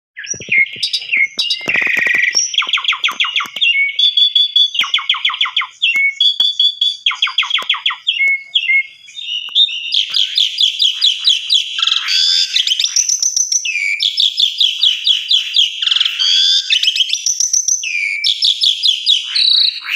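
Asian pied starling (jalak suren) singing a long, busy lure song: fast rattling trills of rapidly repeated notes, chattering phrases and short whistles in almost continuous succession, higher and denser from about halfway through.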